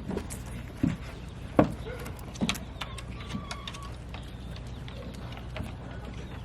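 Sharp plastic clacks and knocks from a Bruder toy side-loader garbage truck being handled, several in the first few seconds, over a steady low hum.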